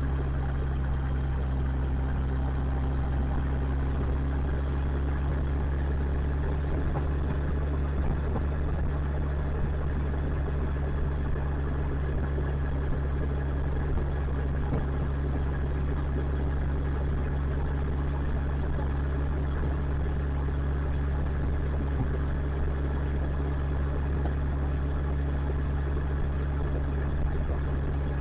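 Motorcycle engine running at a steady pace while riding, a constant low drone with an even rush of road and wind noise over it.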